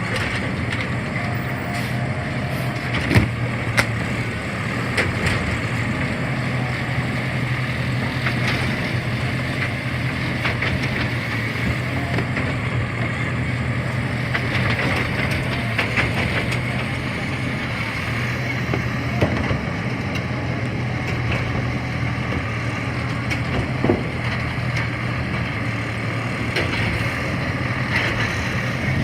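CNG garbage truck engine running steadily, with a few sharp knocks and clatter now and then.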